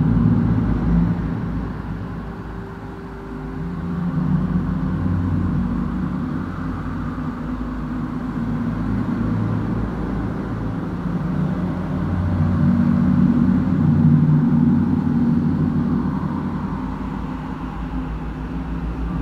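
A low, continuous rumble whose deep tones shift slowly, dipping in level about three seconds in.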